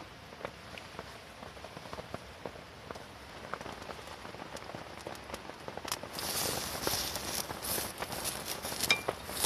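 Rain pattering on a canvas tent, with scattered small clicks and crackles. About six seconds in, a loud sizzle starts: food frying in a hot pan over the campfire.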